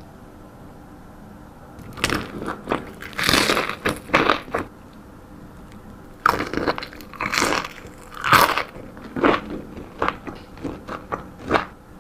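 Crunchy fried fast food being bitten and chewed close to the microphone, in two runs of irregular loud crunches.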